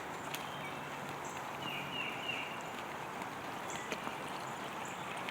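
Outdoor woodland ambience: a steady rushing noise with scattered light ticks and a few short high chirps about two seconds in.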